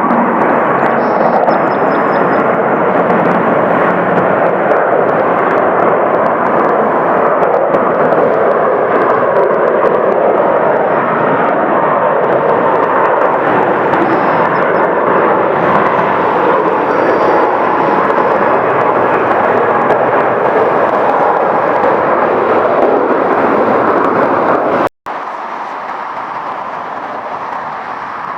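Airbus A380 passing, a loud steady rush of four-engine jet noise. About 25 seconds in it cuts out for an instant, and a quieter steady aircraft noise follows.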